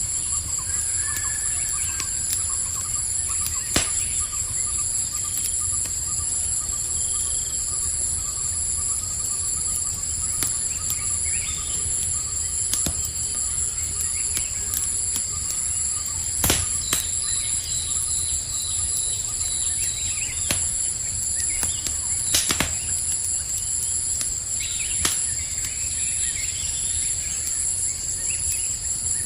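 Campfire crackling with a few sharp pops, the loudest about 16 and 22 seconds in, over a steady high trilling chorus of crickets and scattered bird chirps.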